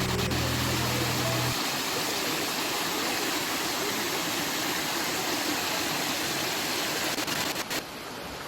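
Water rushing over the Madatharuvi waterfall's rocks: a steady, dense hiss. It drops a little quieter near the end.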